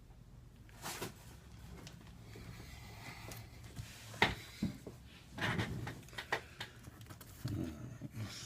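Small clicks and knocks of iPad repair parts and tools being handled on a workbench, the sharpest about four seconds in, over a steady low hum.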